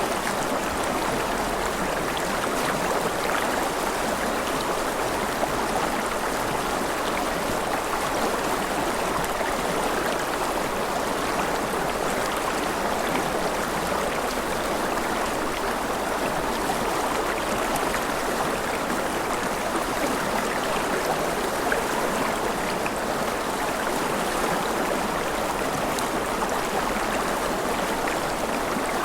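Gentle rain falling steadily: an even, unbroken hiss of water with faint fine drop ticks.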